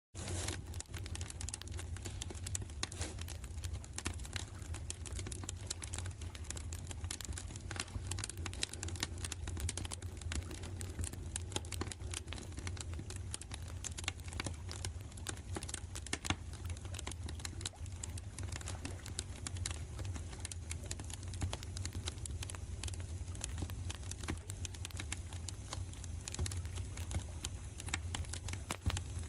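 Campfire crackling: many small, irregular snaps and pops over a steady low rumble.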